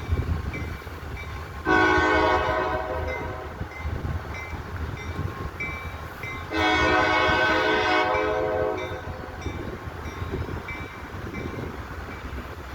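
CSX locomotive 6460's air horn blowing two long blasts about five seconds apart, each a chord of several steady tones with an echo trailing off. A continuous low diesel-locomotive rumble runs underneath.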